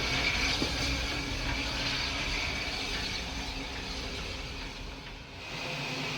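Steam locomotive standing at the platform during coupling, with a steady hiss over a low rumble that eases briefly about five seconds in.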